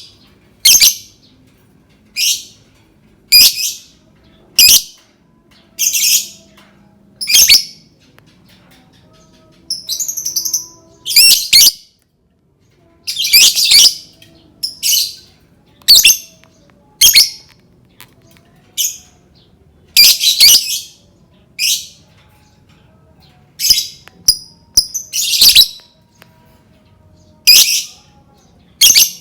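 Lovebird giving short, loud, shrill chirping calls, mostly single and about a second apart, now and then two in quick succession.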